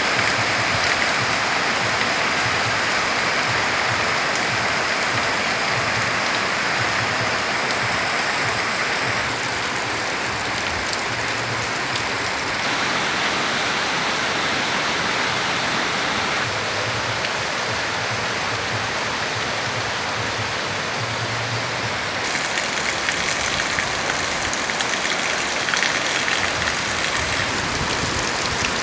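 Heavy rain pouring steadily, a dense even hiss, growing a little louder about two-thirds of the way through.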